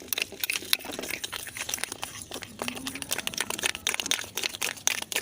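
Sugar and shampoo being stirred together: a continuous gritty crunching and scraping of wet sugar grains, made of many small, fast, irregular clicks.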